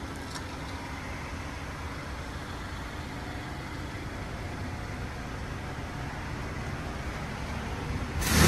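A car's engine idles with a steady low hum inside an automatic car wash bay. Near the very end, a much louder mechanical noise with a deep hum starts suddenly, as the wash equipment starts up.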